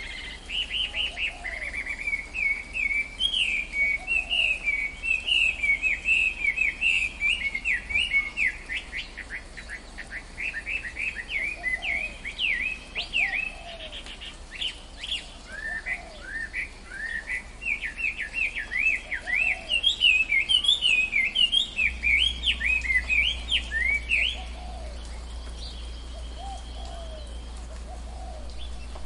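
Tropical forest birds singing: one bird pours out a long run of rapid, high chirping notes that stops suddenly near the end, while another bird gives occasional lower, short calls in the background.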